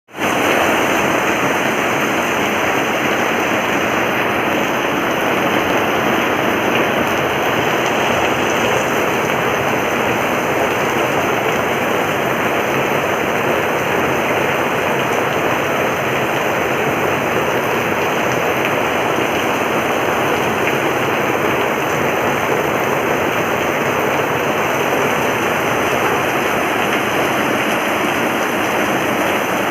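Heavy rain falling, a loud, steady hiss that does not let up.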